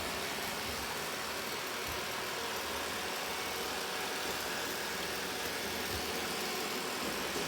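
Robot vacuum cleaner running, a steady, even whirring hiss with no change.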